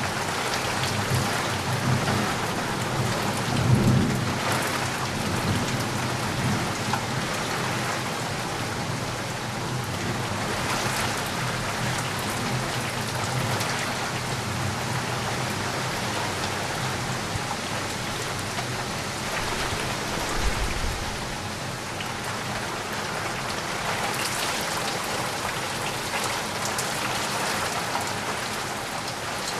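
Steady rain falling, with low rumbles of distant thunder about four seconds in and again about twenty seconds in.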